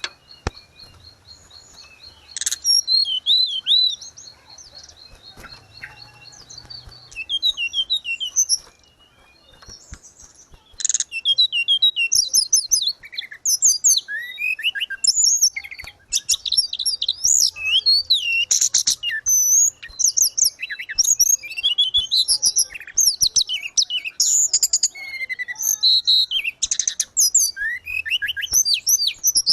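Tledekan gunung songbird singing: a rapid, high-pitched twittering song of quick sweeping chirps and trills. It is sparse with pauses in the first ten seconds or so, then runs as continuous, dense chatter.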